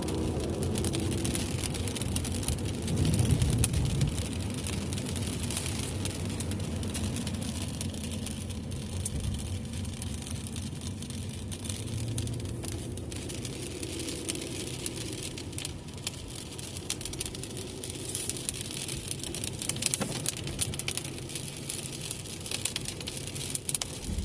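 Car driving in the rain, heard from inside: a steady low rumble of tyres and engine, with rain hissing and ticking on the car. A louder low surge comes about three seconds in.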